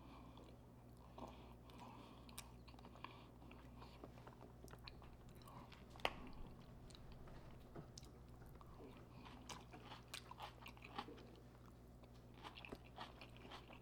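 A person chewing food close to the microphone: faint soft crunches and mouth clicks, with one sharper crunch about six seconds in.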